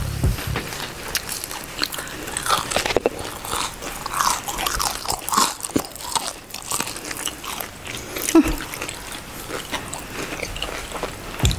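Close-up biting and chewing of a crispy fried corndog coated in chocolate and almond slices. Irregular crunches and crackles run throughout, with one heavier crunch a little past eight seconds in.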